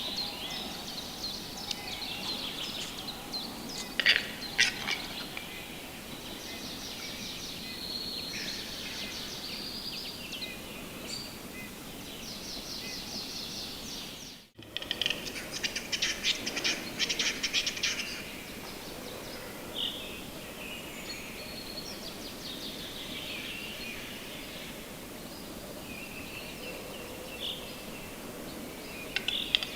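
Birds calling, a mix of chirps and runs of rapid, scratchy, high trills, with a brief break about halfway through.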